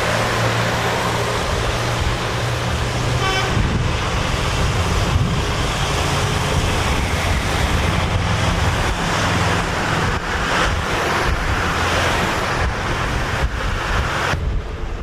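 Street traffic noise, with a short horn toot about three seconds in. The rushing noise drops away just before the end.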